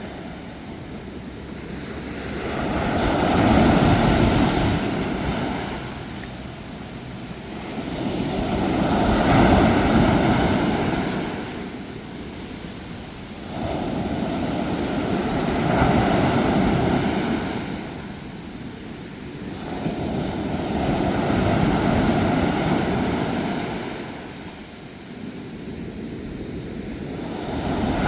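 Ocean waves rolling in and breaking on the shore, a rushing surge that swells and falls away about every six seconds, five times over.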